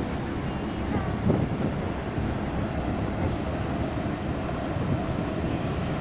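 Wind buffeting the microphone, a steady low rumble without distinct events.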